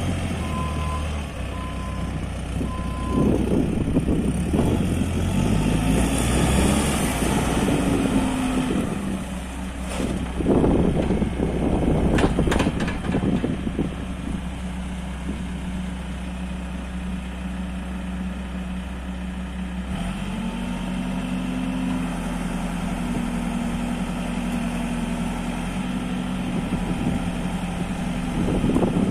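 Case 695ST backhoe loader's diesel engine running as the machine works, its pitch rising and falling, with a reversing alarm beeping in the first second. A few sharp knocks come about a third of the way in, and after that the engine settles into a steadier, higher note.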